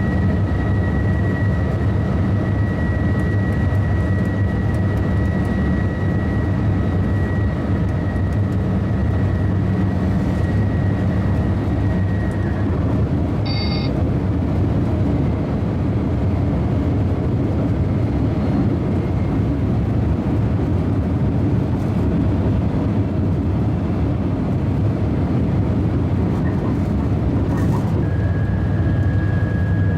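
High-speed train running steadily at speed: a continuous deep rumble with a thin high whine over it, which stops partway through and returns slightly lower near the end. A short high electronic beep sounds about halfway through.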